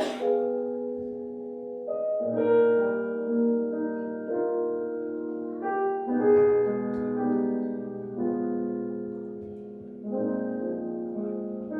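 Piano playing the slow introduction of a song's accompaniment: sustained, overlapping chords changing every second or so, with a brief sharp click right at the start.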